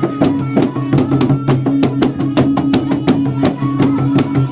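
Music of rapid, steady drumming, about five strikes a second, over a sustained low humming tone.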